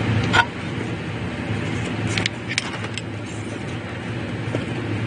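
Hand tools clicking against metal while a ground bolt and its wires are worked loose: one sharp click about half a second in and a few lighter clicks two to three seconds in, over a steady low hum.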